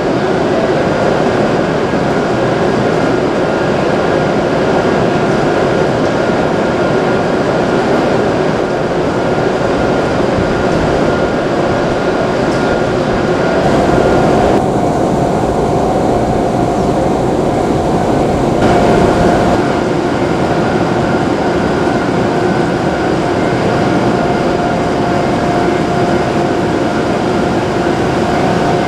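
Hokuriku Shinkansen E7/W7-series train sounding steadily, with level whining tones over its running noise. A further steady tone joins about halfway through.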